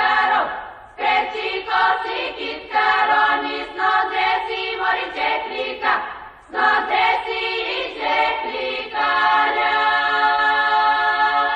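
Background music: a choir singing held chords, with short breaks about a second in and again about six seconds in, then one long sustained chord near the end.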